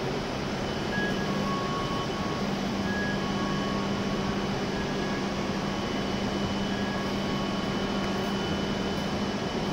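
W7-series Shinkansen train standing at the platform with its on-board air conditioning and power equipment humming steadily, plus faint short high tones coming and going.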